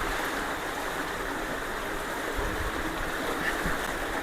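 Swift creek water rushing steadily, an even noise with no breaks.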